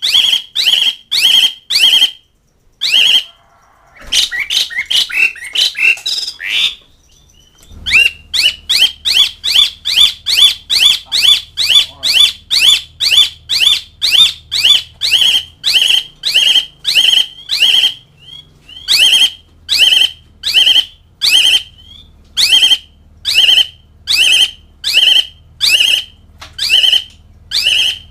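Pied starling (jalak suren) calling: loud, harsh, squawking notes repeated about twice a second, with a burst of more varied chattering about four seconds in. These are the bird's challenge calls to rivals.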